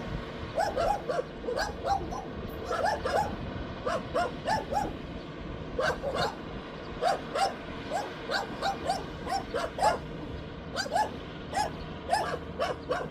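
Short animal calls in quick runs of two to four, about three a second, repeating throughout over a faint steady hum.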